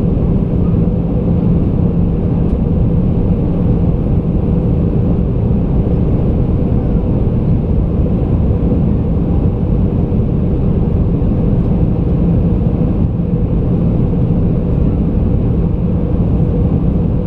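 Steady cabin noise inside an Airbus A320: the jet engines and airflow make an even rumble with a constant low hum, unchanging throughout.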